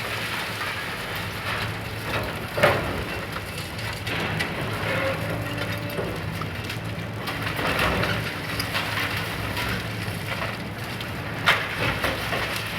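Demolition excavator pulling down a building wall: a steady crackle of crumbling, falling concrete debris over the low hum of the machine's engine, with a sharp crack about two and a half seconds in and another near the end.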